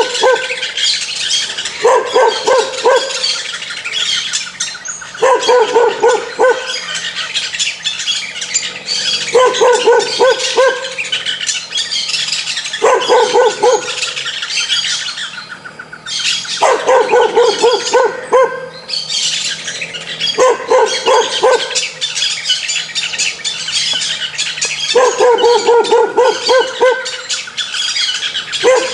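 A dog barking in quick volleys of several barks, one volley every three to four seconds, with birds chirping steadily in the background.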